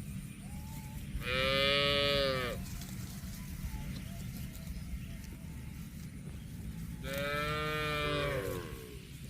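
A cow mooing twice, each moo about a second and a half long, the pitch sagging at the end of each.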